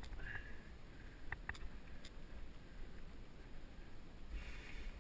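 Mountain bike ride heard from a helmet-mounted GoPro: a steady low rumble of tyres and air, with a few sharp clicks and rattles in the first half and a brief hiss about four and a half seconds in.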